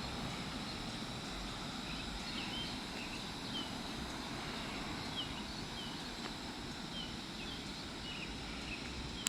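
Steady outdoor background noise with a bird chirping repeatedly, short high chirps every second or so through the middle.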